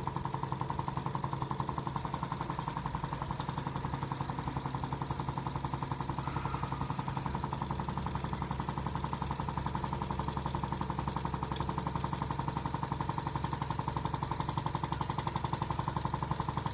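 Homemade gamma-type Stirling engine running steadily, its moving parts clattering in a fast, even rhythm.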